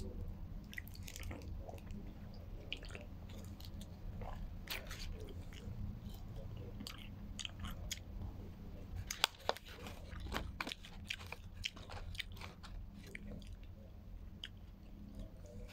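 Close-up chewing and biting: a person eating, with many small irregular crunches and wet mouth clicks over a low steady hum.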